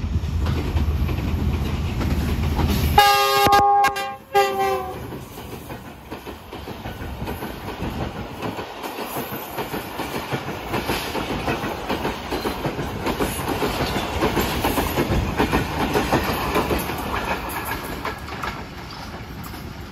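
Diesel-hauled passenger train passing close by. The locomotive's engine goes by with a heavy low rumble, and its multi-tone air horn sounds once for about a second and a half, about three seconds in. Then the coaches run past with a steady rattling clatter that fades just before the end.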